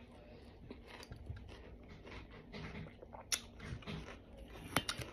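Quiet chewing and biting of juicy watermelon chunks, with a few sharp clicks of a fork against a steel bowl, the loudest near the end.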